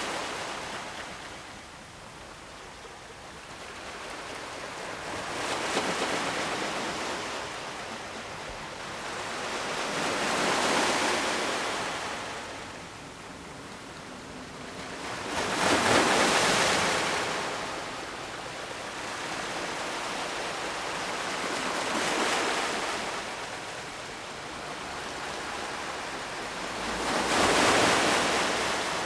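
Ocean surf: waves breaking and washing in, five surges about every five or six seconds, the loudest about halfway through and near the end.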